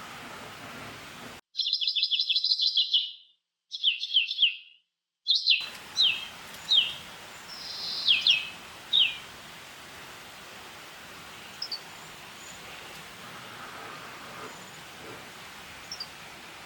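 A bird chirping: a rapid run of short, high, falling chirps, then a few shorter groups and single chirps that stop about nine seconds in, with two faint chirps later. A steady background hiss runs underneath.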